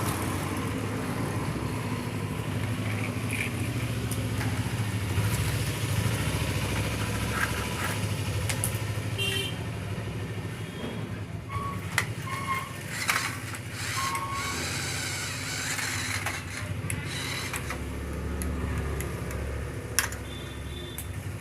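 Steady low rumble of a motor vehicle, with scattered clicks and knocks and a few short high beeps near the middle.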